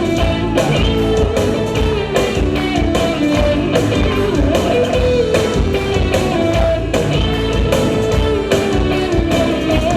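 Live rock band playing an instrumental break, with a guitar melody over a steady drum beat.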